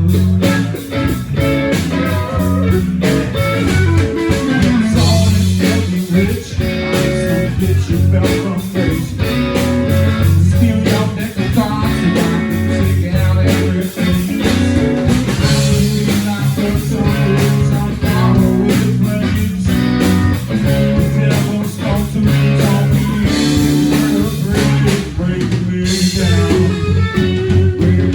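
Live blues-rock band playing, with electric guitar and a drum kit.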